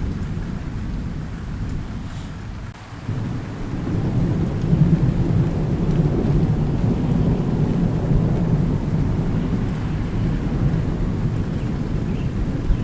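Thunderstorm: rolling thunder rumbles under a steady hiss of rain. The thunder dips briefly, then swells up again about three seconds in and keeps rolling.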